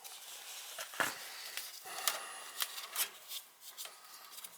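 Hands handling the wires and plastic plug connectors of a gas furnace's control board: light rustling with a series of sharp clicks and ticks, the strongest about a second in.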